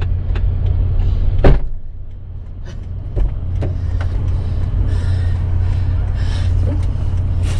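Vehicle engine running with a steady low drone. A single sharp knock about a second and a half in, and a few lighter clicks.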